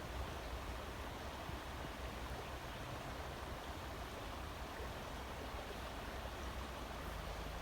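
Steady rushing of a small mountain creek.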